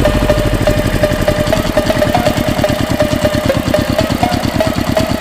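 Small engine of a DIY mini tractor running steadily, with a rapid, even beat of about nine to ten pulses a second.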